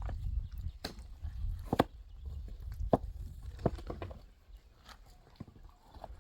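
A series of sharp knocks, roughly one a second and irregularly spaced, over a low rumble.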